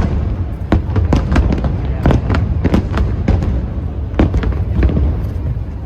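Aerial fireworks display: a rapid, irregular run of sharp bangs and crackles, several a second, over a continuous low rumble of more distant bursts.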